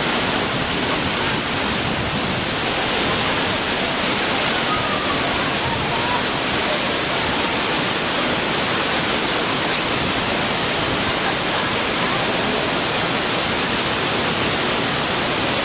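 Waterfall: a steady, even rush of falling water, with faint voices briefly audible under it about a third of the way in.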